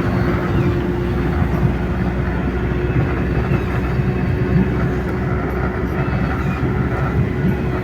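Engine and road noise inside a GAZelle van's cab while driving, a steady rumble with a constant droning tone over it.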